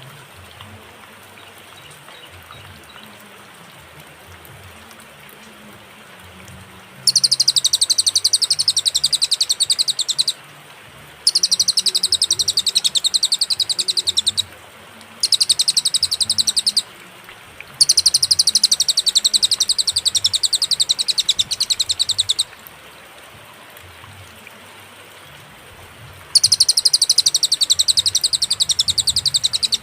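Cililin song: after about seven seconds of faint background noise, five very rapid, high-pitched trills of a few seconds each, separated by short pauses.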